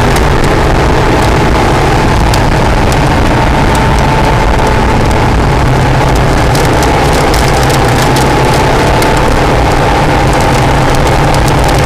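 Acura NSX's V6 engine running hard at a near-steady pitch, heard over heavy wind and road noise with scattered sharp clicks.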